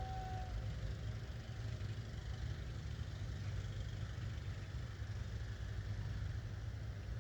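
Engine idling steadily, a low even rumble.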